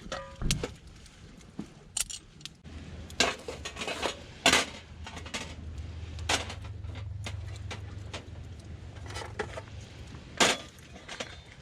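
Metal utensils clinking and knocking against pans and dishes in a string of sharp, irregular clicks, with a low steady hum coming in about three seconds in.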